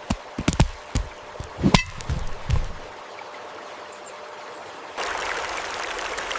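Trickling stream water with a run of small plops and splashes in the first few seconds. About five seconds in, it switches abruptly to a louder, steady rush of water.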